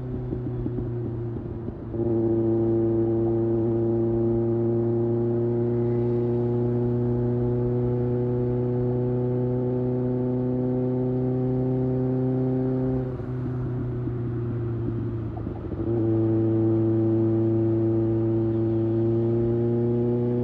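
2024 Kawasaki ZX6R's inline-four engine at highway cruising speed, a steady drone whose pitch creeps slowly upward. The throttle opens and the engine gets louder about two seconds in, eases off for a few seconds past the middle, then opens again.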